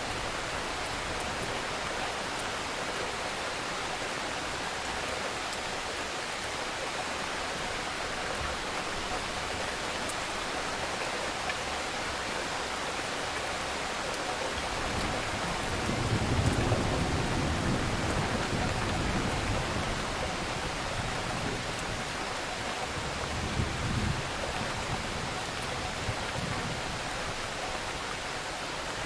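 Steady hiss of storm rain and wind, with a louder low buffeting from wind gusts on the microphone about halfway through and again briefly a few seconds later.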